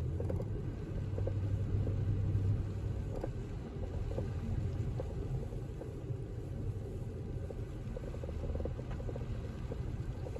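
Steady low rumble inside a moving car: engine and tyres on an unplowed, snow-covered street. A low hum is a little stronger for the first couple of seconds, then eases.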